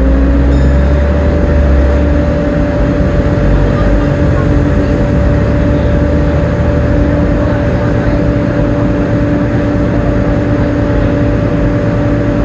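Volvo B7TL double-decker bus on the move: its high drivetrain whine, the 'Hoover' sound, finishes rising in pitch about a second in and then holds steady as the bus cruises. Under it run a low engine rumble and road noise.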